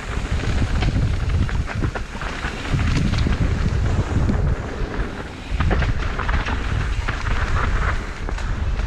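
Wind buffeting the microphone during a fast descent on a mountain trail, with scattered rattles and knocks from the bike and trail surface.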